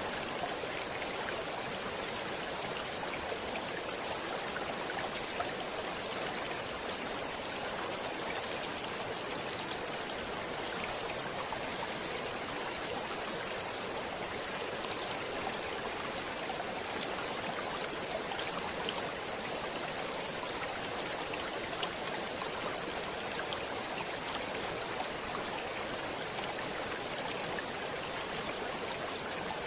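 Running water of a stream, a steady rush with faint small splashes that does not change.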